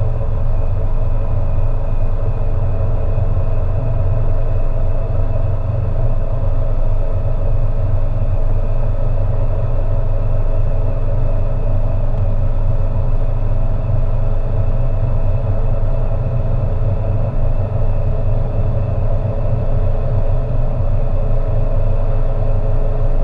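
Peugeot 207's 1.6 HDi four-cylinder turbodiesel running at a steady pace under way, with a constant low rumble of engine and road noise and no change in pitch.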